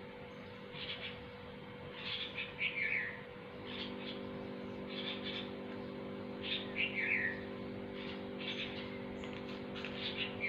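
A bird calling over and over: a burst of short chirps ending in a falling note, repeated about every two seconds. Beneath it runs a steady low electrical hum, joined by further hum tones about four seconds in.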